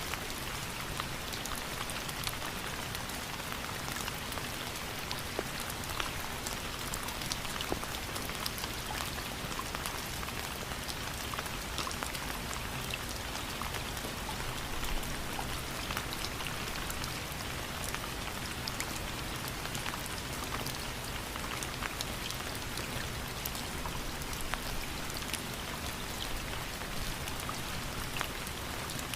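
Steady rain falling, with many separate drops pattering on a surface over a constant hiss.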